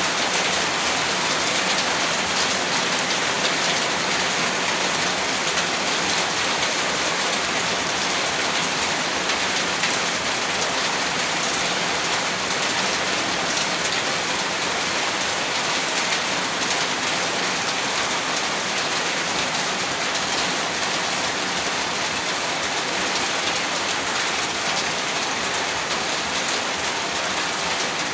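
Heavy rain falling steadily on a surface: a dense, even hiss with no thunder or single drops standing out.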